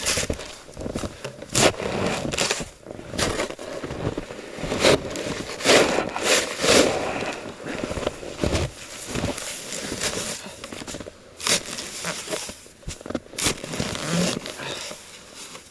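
Snow being shovelled off a hut roof: a shovel cutting into and scraping packed snow, with irregular crunches a few times every couple of seconds.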